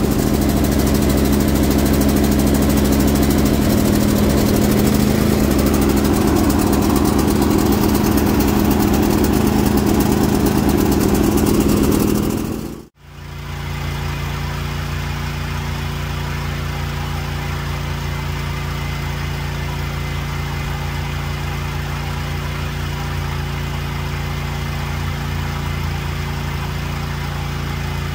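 Cub Cadet lawn tractor engine running steadily just after a cold-weather start. About halfway through, the sound cuts off abruptly and a quieter, steady engine idle with a different pitch follows.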